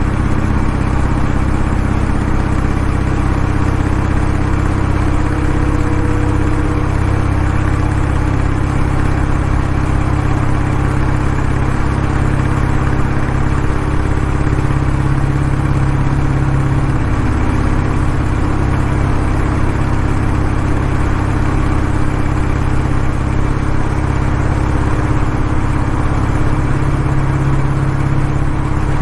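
Kawasaki W650's air-cooled parallel-twin engine running steadily through its exhaust, with an even, unchanging note.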